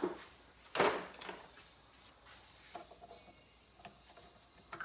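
Snap ring pliers and small engine parts handled on a workbench while the kickstarter gear's snap ring is worked off: one sharp clack about a second in, then a few faint clicks.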